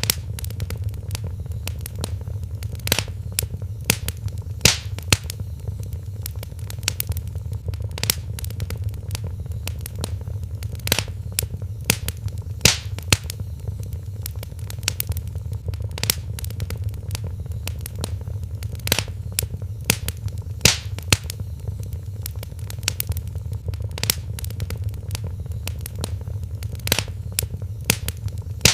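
Wood fire in a fireplace crackling, with irregular sharp pops, some much louder than the rest, over a steady low rumble.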